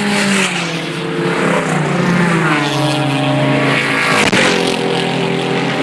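Race car engines passing at speed, several engine notes overlapping, with pitch falling as cars go by. A brief sharp click comes about four seconds in.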